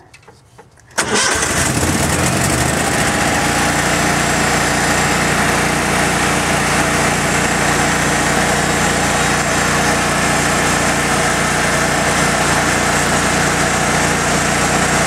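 Engine-driven welding machine's small engine cold-starting at about 10 below zero on its push-button starter and choke: it catches suddenly about a second in, runs a little unevenly for a moment, then settles into steady running.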